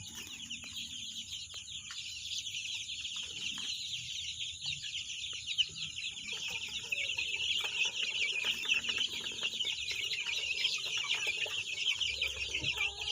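Chickens clucking over a dense, continuous chatter of high, rapid chirping, which grows louder over the first few seconds.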